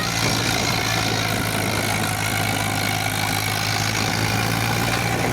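Tractor diesel engine running steadily at an even pitch, with no revving.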